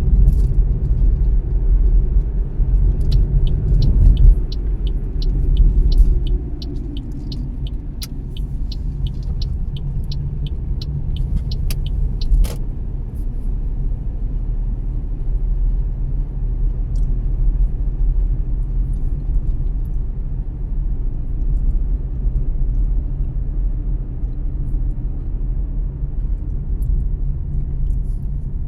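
Car's road and engine rumble heard from inside while driving, louder for the first few seconds, then dropping to a lower steady level as the car slows. A regular ticking, about two ticks a second, runs for several seconds in the middle: the turn-signal indicator.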